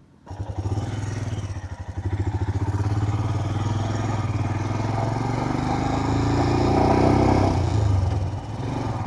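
Motorcycle engine running while riding, coming in abruptly a moment in; its pitch climbs over the middle as it accelerates, then dips briefly about eight seconds in.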